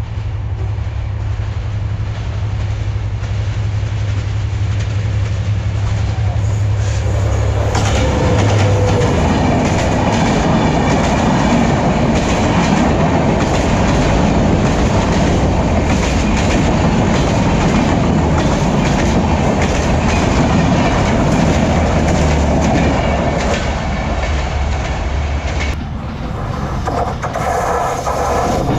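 A passenger train passing close by. First comes the steady low drone of its diesel locomotive; from about eight seconds in, the coaches go by with a continuous rushing roll and clickety-clack of wheels over the rail joints. Near the end the sound drops briefly and gives way to another oncoming train.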